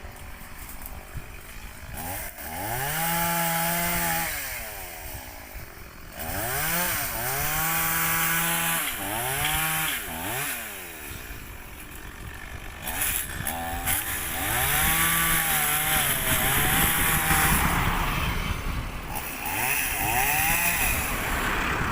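Chainsaw revved up about six times, each time holding at high speed for a second or two, then dropping back to idle.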